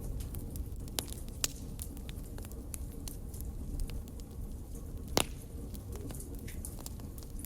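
Wood fire burning with a low rumble and scattered crackles. A sharp pop comes about five seconds in, with smaller pops about a second and a second and a half in.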